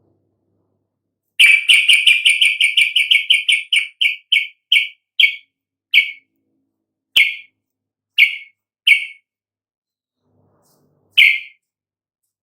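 Yellow-vented bulbul (trucukan) calling: a rapid run of sharp chirps, about six a second, that slows to single chirps about a second apart, with one more chirp near the end. A sharp click comes about seven seconds in.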